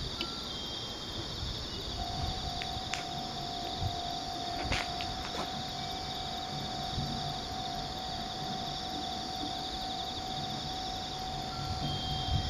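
A steady high whine from an approaching freight train sets in about two seconds in and holds, over a constant insect drone. A low rumble builds near the end as the train draws closer.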